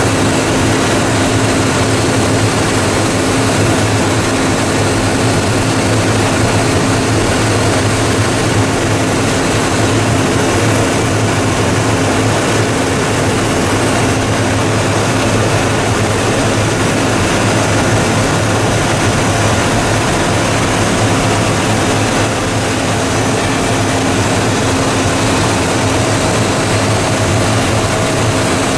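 YDN-100-2V-T two-stage plastic recycling machine running: a loud, steady drone with a constant low hum.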